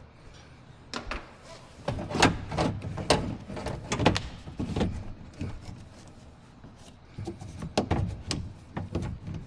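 Irregular clicks, knocks and rattles of a car door latch actuator and its linkage being worked loose inside the door, metal and plastic parts striking the door shell.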